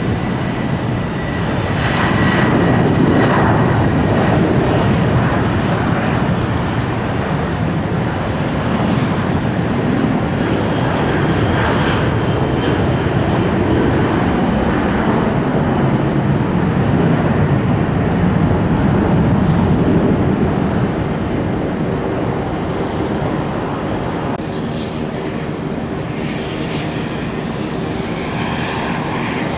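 Jet airliner engines at high power, most likely a Boeing 737 departing; a loud, steady rushing noise that eases slightly about two-thirds of the way through.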